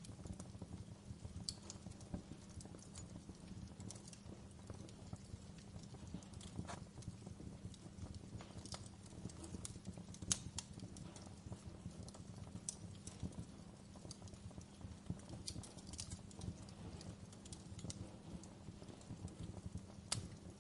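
Fire in a fireplace crackling: irregular sharp pops and snaps over a steady low rumble, with one louder pop about ten seconds in.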